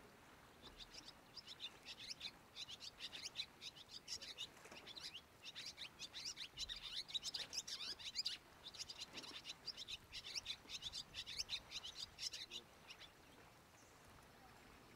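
Birds chirping in quick, busy series of short high notes, which stop about two seconds before the end.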